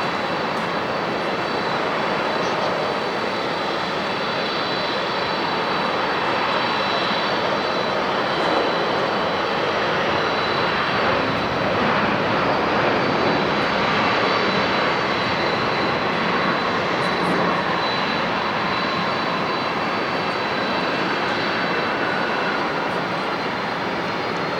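Jet airliner's turbofan engines: a steady rush of engine noise with a thin high whine, swelling a little around the middle.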